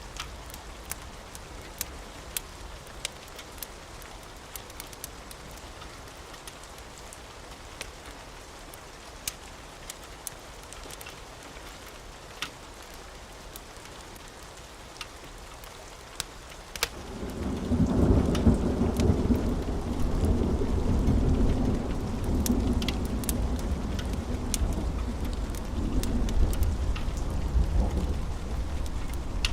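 Steady rain with sharp, scattered crackles of a wood fire. About halfway through, a loud, low rolling rumble of thunder swells in and keeps rolling to the end.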